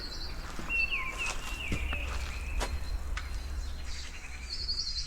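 Wild birds calling outdoors: a few short chirps in the first half and a quick high trill near the end, over a faint steady high tone and a low rumble.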